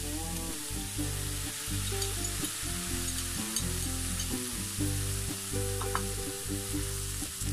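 Minced beef and vegetables sizzling in a frying pan as a soy-based sauce is poured in, with a spatula starting to stir the stir-fry near the end.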